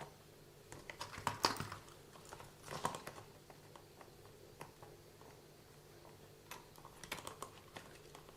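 Scattered light clicks and taps of small hard RC car drivetrain parts being handled and turned by hand, over a faint steady hum.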